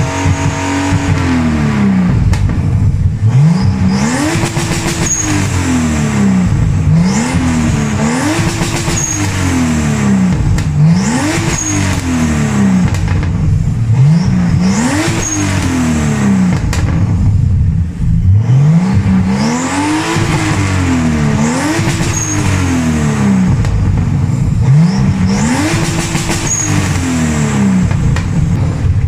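Turbocharged BMW 328i engine with a full open exhaust and Magnaflow muffler, revving up and dropping back again and again, about every two seconds. The exhaust note climbs steeply in pitch on each pull and falls away sharply between them.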